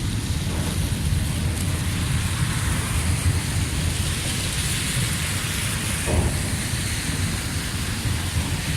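Freight train cars rolling past, a steady loud rumble of steel wheels on the rails with a hissing noise over it.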